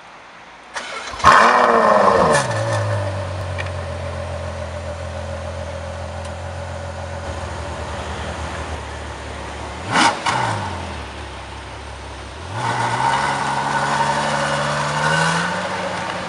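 Ferrari FF's V12 engine starting: a short crank about a second in, then it fires with a loud rev flare that settles into a steady idle. Around ten seconds a quick throttle blip, and later the revs climb for about three seconds before falling back near the end.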